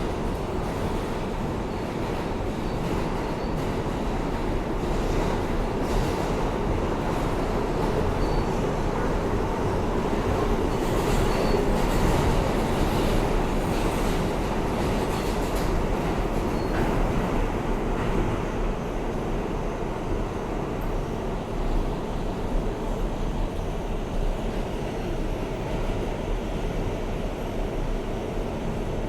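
Interior of a New York City R160A subway car running at speed between stations: a steady rumble of wheels on rail and running gear, swelling slightly about halfway through, with a few faint high squeaks.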